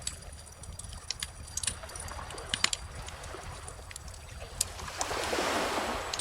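Wood fire crackling, with irregular sharp pops and a cluster of louder snaps about two and a half seconds in, while a calm ocean wave swells and washes in over the last second or so.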